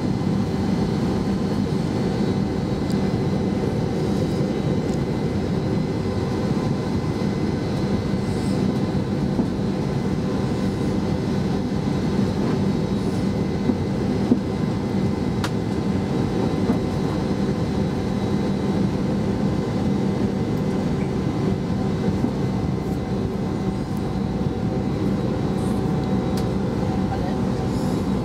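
Airbus A320's IAE V2500 jet engines running steadily, heard from inside the passenger cabin as an even hum with no rise in power, with a few faint ticks.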